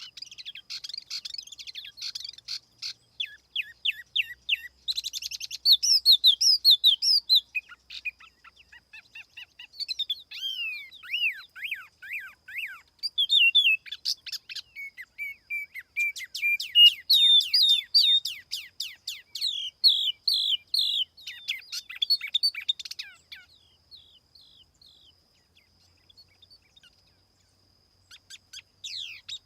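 Tiểu mi songbird singing, recorded cleanly as a lure call. It gives fast runs of high chirps and sliding whistled notes in bursts, fading to a few faint notes about 24 seconds in before starting again near the end.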